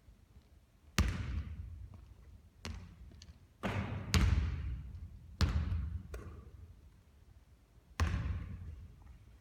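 A basketball during shooting practice: about seven sharp, irregularly spaced thuds of the ball striking the hoop and bouncing on the court, each with a short ringing tail. The loudest come about one second and four seconds in.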